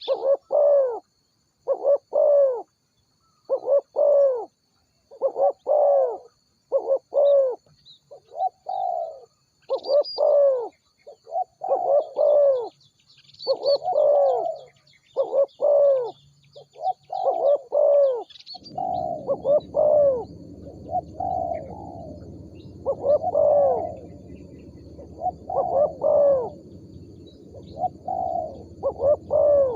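Spotted dove cooing, repeated coo notes about one a second, with faint high chirps of small birds behind. A steady low noise joins about two-thirds of the way in.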